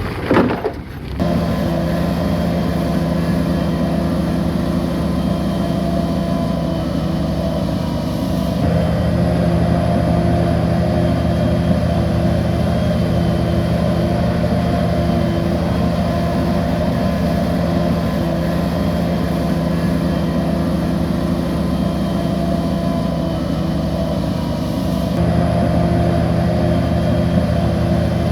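Bulldozer's diesel engine running at a steady speed, with a brief unsettled stretch in the first second and small steps in loudness about a third of the way in and near the end.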